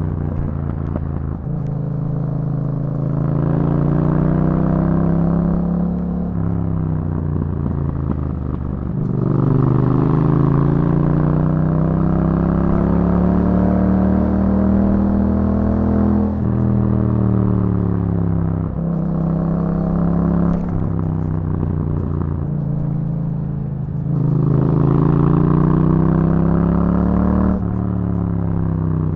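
Yamaha MT-07's parallel-twin engine through an Akrapovic exhaust, its revs rising and falling in long sweeps as the bike accelerates and eases off, with several abrupt pitch steps at gear changes.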